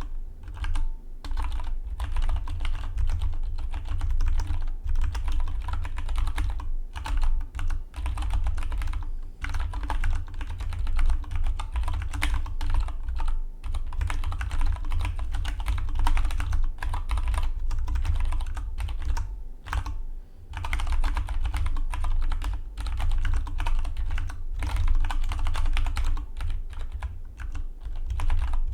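Fast touch typing on a Dygma Defy split mechanical keyboard: a rapid, continuous clatter of keystrokes broken by a few short pauses.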